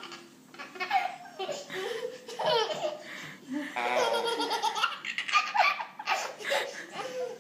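A toddler belly-laughing in repeated bursts, with short pauses between them.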